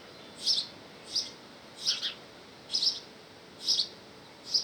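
A small bird chirping over and over, about six short high chirps, roughly one every second, at the nest while the parent bird delivers food.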